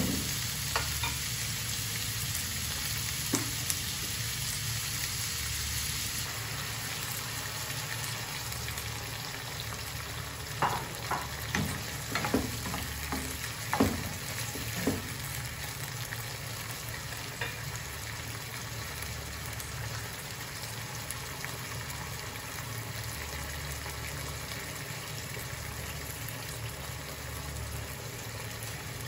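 Chicken pieces and onions sizzling steadily in a nonstick frying pan. A wooden spoon scrapes and knocks against the pan as they are stirred, most busily about halfway through.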